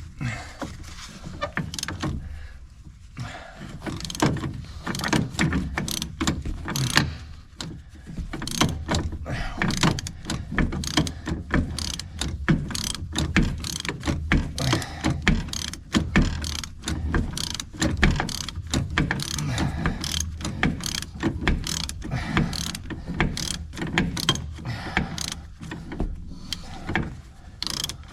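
Hand ratchet wrench clicking in quick runs of strokes, working bolts loose, with brief pauses.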